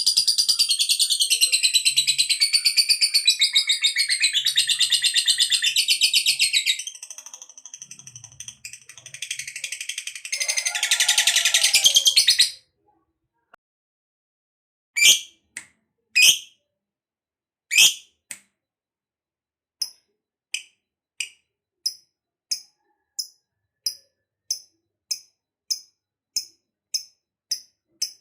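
Lovebird giving a long ngekek, a rapid, high rattling chatter, for about seven seconds, then a second shorter burst that cuts off abruptly. After a pause come a few single sharp chirps, then a string of short, evenly spaced chirps at about one and a half a second.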